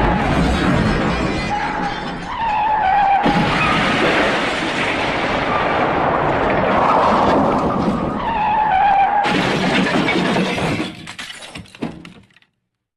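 Edited crash sound effect: a dense, loud mix of shattering and smashing noise with a short squealing tone that recurs several times. It breaks up near the end and cuts off abruptly.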